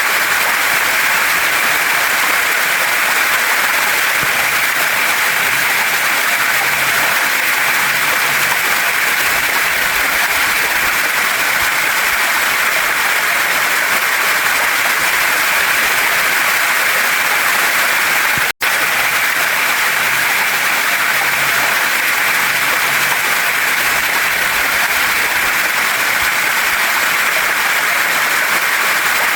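Waterfall and stream water rushing steadily, a dense, even, bright hiss, broken by a split-second dropout about two-thirds of the way through.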